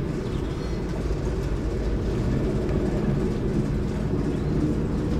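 Heavy diesel engine running steadily: a low, even rumble.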